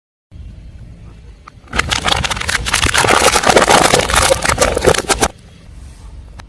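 A car tyre rolling over and crushing crunchy objects: a loud, dense run of crackling and crunching that starts abruptly about two seconds in and cuts off about three and a half seconds later, over a low rumble.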